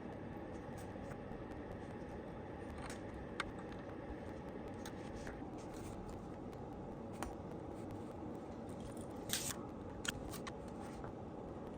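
Scattered small sharp clicks and snips, loudest in a quick cluster about nine and a half seconds in and once more a moment later, over a steady low hum.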